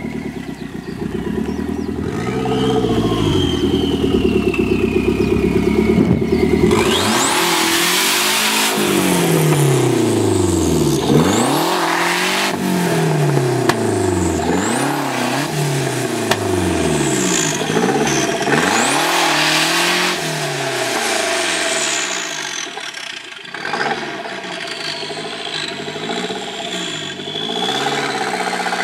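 Fiat 127 with a swapped-in 2.0 16V turbo four-cylinder engine, revving and then accelerating hard, its note climbing and dropping again and again as it pulls through the gears. The engine is running on poor turbo boost of only 0.5 bar.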